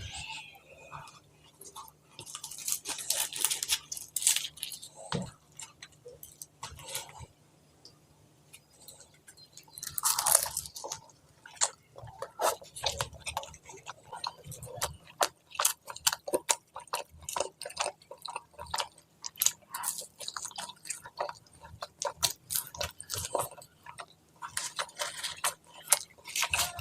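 Close-miked eating sounds: a person biting and chewing a meal of curry, rice and fried bread, with rapid wet mouth clicks and smacks and a few louder crunching bursts.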